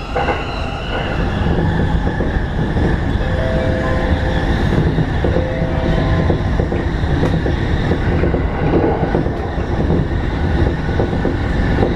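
E233-series Keihin-Tohoku Line electric train running along the track, heard from inside the car: a steady rumble of wheels on rail. Near the middle a faint two-note steady tone sounds twice, briefly.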